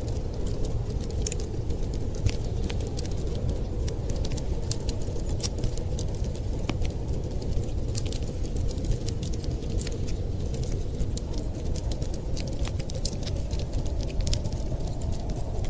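Fire crackling with many small, irregular sharp pops over a steady low rumble.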